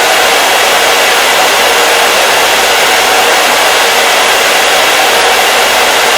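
Hair dryer running steadily on one setting: a loud, even rush of blown air with a faint steady motor tone, unchanging throughout.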